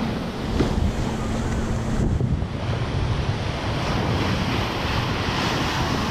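Ocean surf washing steadily, with wind buffeting the microphone as a low rumble.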